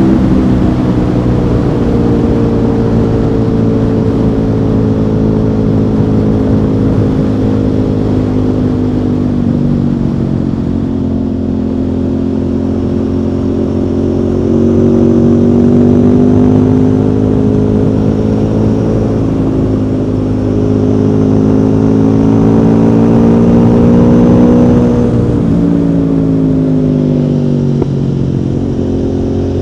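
Aprilia Tuono V4 motorcycle's V4 engine under way. Its revs drop in the first couple of seconds, then hold and rise and fall gently with the throttle, and drop again a few seconds before the end.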